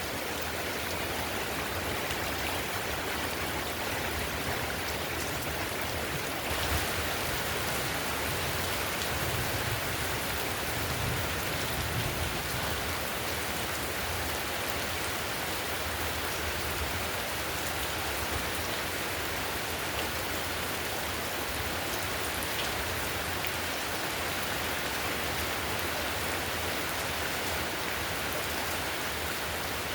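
Heavy rain falling steadily on a clay-tiled roof, with a dense hiss of drops that swells slightly for a few seconds early in the middle.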